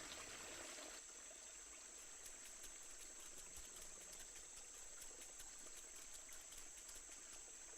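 Faint rainforest insect chorus: a steady high-pitched drone with faint scattered ticks.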